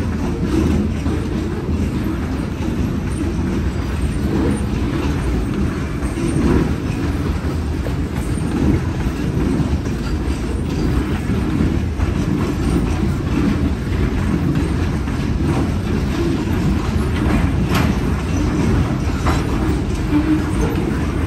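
Freight train hopper cars rolling steadily past, a continuous rumble of steel wheels on rail with a few sharp clanks from the passing cars.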